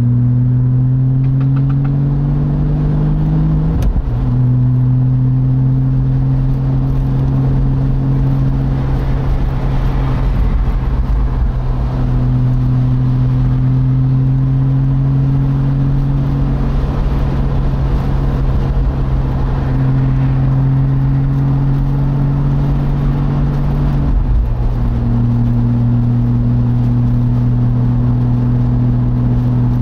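Porsche Boxster's flat-six engine running at fairly steady revs, heard from inside the open cockpit. Its note rises slowly over the first few seconds and dips briefly twice, about four seconds in and again about twenty-four seconds in; otherwise it holds one steady drone.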